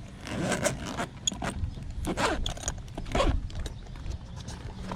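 Zipper on a tool bag being pulled in a few long strokes, each a rasping slide.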